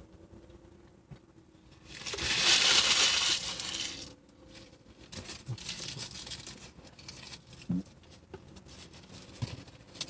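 A paper fast-food bag being rummaged through. A loud burst of crinkling and rustling about two seconds in lasts about two seconds, followed by lighter crackling and small handling clicks.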